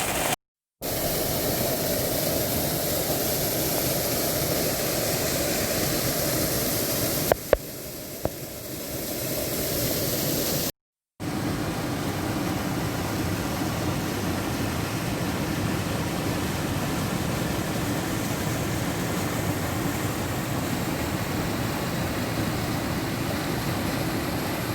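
Steady hiss of heavy rain falling, cutting out abruptly twice. About seven seconds in come two sharp clicks, then a quieter, duller stretch before the full hiss returns.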